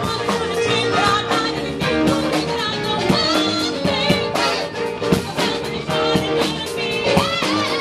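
Live band playing an upbeat rock number, with drums keeping a steady beat under guitar and a wavering lead line.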